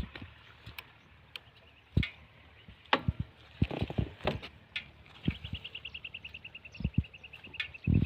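Scattered knocks and thumps of handling noise on the phone's microphone. From about five seconds in, a bird gives a rapid high trill that falls slightly in pitch.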